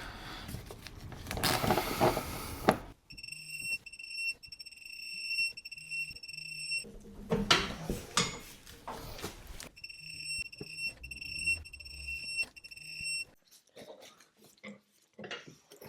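Electronic beeper sounding in rapid repeated pulses, in two runs of about three seconds each, with stretches of rustling noise before and between them.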